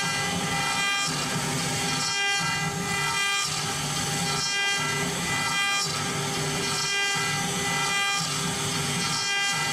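CNC router spindle whining steadily as it cuts sheet material, with a noisier grinding underneath that drops out briefly about once a second.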